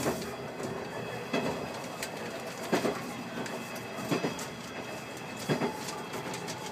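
Diesel railcar running along jointed track, its wheels clacking over rail joints at an even beat of about one knock every second and a half over a steady running noise.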